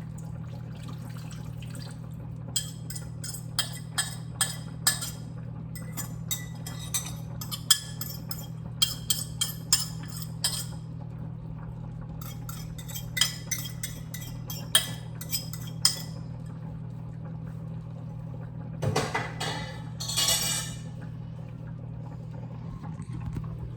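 A liquid sauce poured from a bowl over chicken in a glass baking dish, with a metal spoon clinking repeatedly against the glass for most of the first two-thirds. Near the end comes a brief louder rush of noise, and a steady low hum runs underneath.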